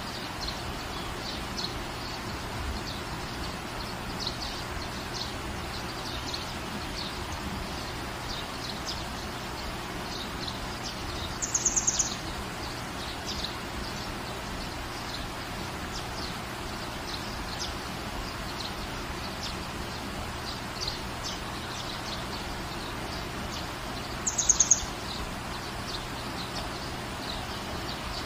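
Steady rain hiss with small birds chirping throughout. Twice, about twelve seconds apart, a short, high, rapid trill stands out loudly above the rain.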